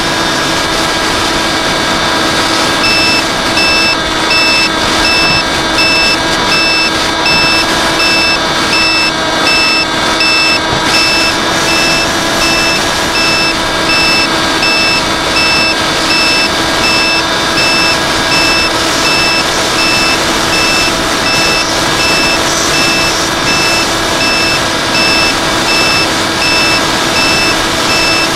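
Quadcopter drone hovering, its propellers giving a steady, high-pitched hum over rushing noise. Rapid, evenly repeated electronic beeping joins in about three seconds in and keeps going.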